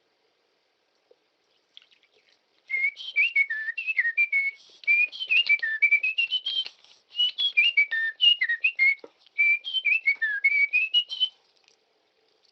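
A person whistling a tune, starting about three seconds in: quick notes that slide up and down, in several phrases with short pauses between them.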